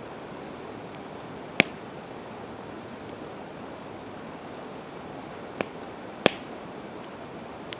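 Campfire of split evergreen wood popping four times: two sharp, loud pops and two smaller ones, over a steady rushing hiss.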